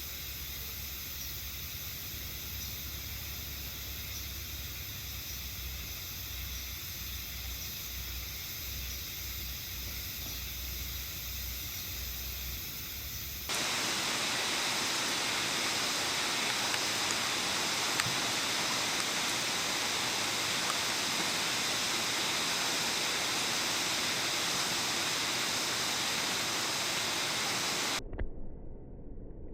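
Steady outdoor rushing hiss that jumps abruptly to a louder, brighter hiss about halfway through, then cuts away shortly before the end.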